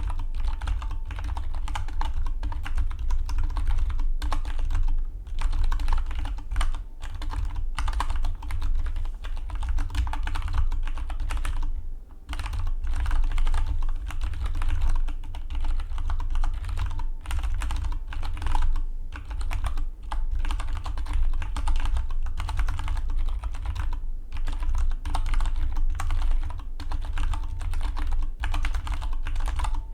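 Continuous fast typing on a Dygma Defy split mechanical keyboard: a dense stream of keystroke clacks with a few short pauses between bursts.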